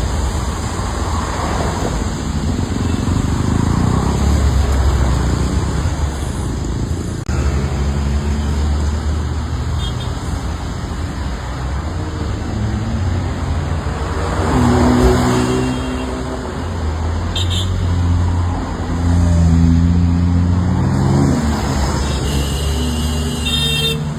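Car engine running amid road traffic, its pitch stepping up and down, with swells of road noise about a second in and again about two-thirds of the way through.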